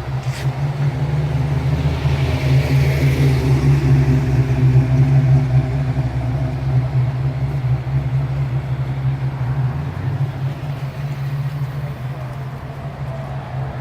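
A car engine running steadily at low speed: a deep, even hum that swells slightly a few seconds in, then eases.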